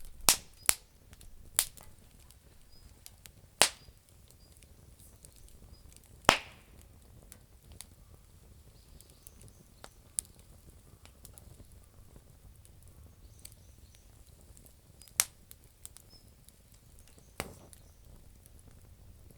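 Campfire of damp firewood crackling: scattered sharp pops a second to several seconds apart, the loudest about six seconds in, over a faint steady hiss.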